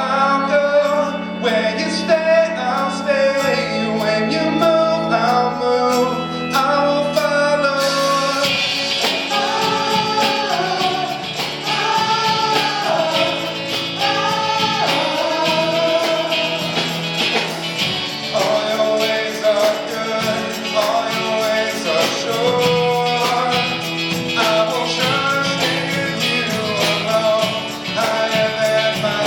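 Church praise team singing a worship song, men's and women's voices together with band accompaniment. Held low chords carry the opening, and the full band with drums comes in about eight seconds in.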